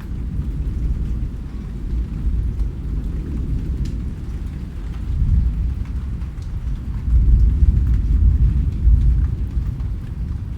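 Steady rain with a low rolling rumble of thunder that swells about halfway through and again later, and scattered raindrop ticks over the top.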